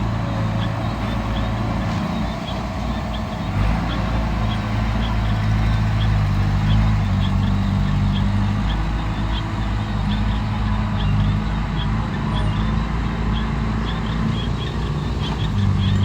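Heavy diesel engine of a bulldozer or dump truck running steadily, with short high chirps repeating over it.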